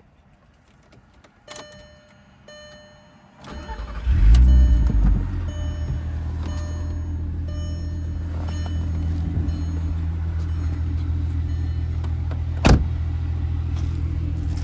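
2003 VW Jetta GLI's 2.8-litre VR6 engine cold-starting: faint clicks and short tones, then the starter cranks briefly, the engine catches with a loud flare about four seconds in and settles into a steady idle. A single sharp knock sounds near the end.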